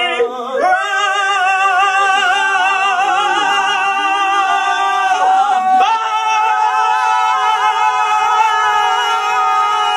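Singing voices holding long chords with vibrato, moving to a new chord about half a second in and again near six seconds.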